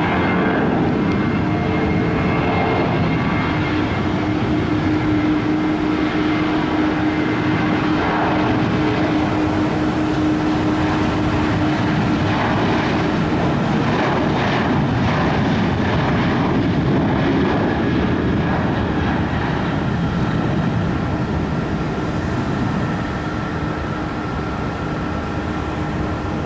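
Jet airliner engines running steadily, a roar with a few steady whining tones over it, easing slightly near the end.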